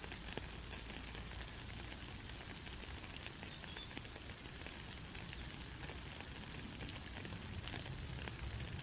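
Steady hiss of a white-noise sleep track, with faint scattered crackles and ticks like rain or frying through it.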